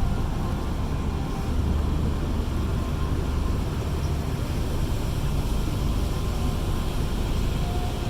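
A tour boat's engine running with a steady low rumble.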